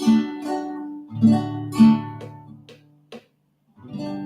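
Acoustic guitar strumming chords in a down-up pattern, with a few short choked strokes and a brief stop of about half a second before the strumming picks up again.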